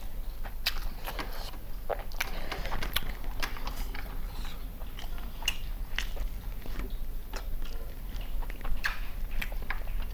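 Close-up eating sounds: irregular crunching, cracking and wet chewing as chicken biryani is eaten, country chicken bones among it, with a steady low electrical hum underneath.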